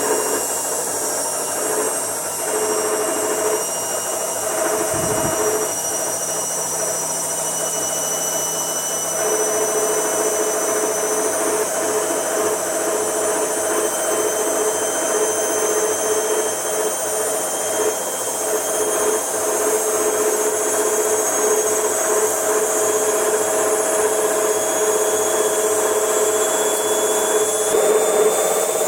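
A motor-driven machine running steadily with a continuous hum and a high-pitched whine, and one brief low thump about five seconds in. The uploader considers the noise abnormal and asks what causes it.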